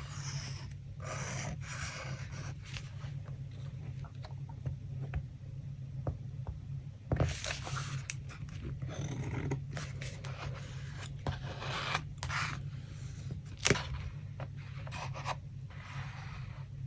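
Paper and craft materials being handled for a collage: repeated rustling and scraping of paper, with two sharp taps about seven and fourteen seconds in, over a low steady hum.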